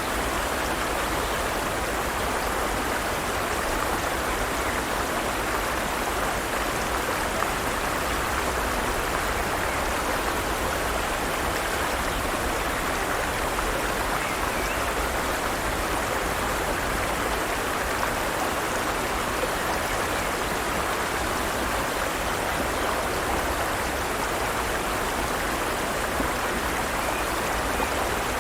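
Forest stream water running over rocks: a steady, even rush of flowing water.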